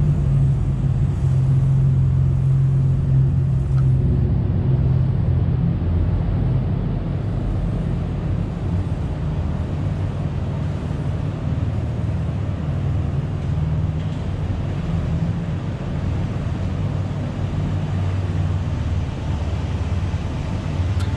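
Straight-piped Nissan Patrol Y61 with the 4.8-litre VTC inline-six engine running at a steady, even pace, a deep continuous exhaust drone with no revving.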